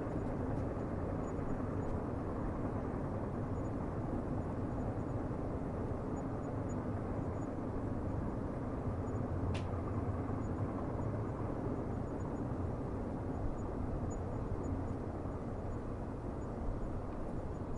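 Steady low rumble of a distant train, with one sharp click about halfway through.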